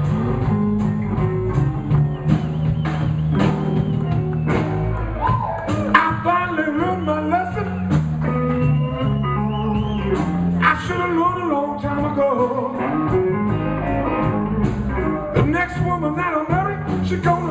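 Live blues band playing an instrumental passage: bass and chords under a steady drum beat, with a lead line of bending notes coming in over the top about five seconds in.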